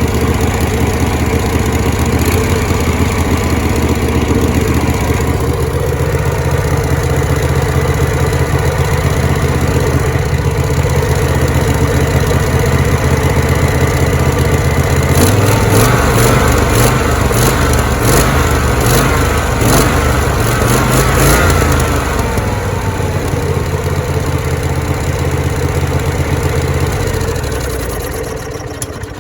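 A floor buffer's engine running steadily, fed through its fuel regulator and solenoid. About halfway through, its note turns rougher for several seconds; near the end it winds down and stops.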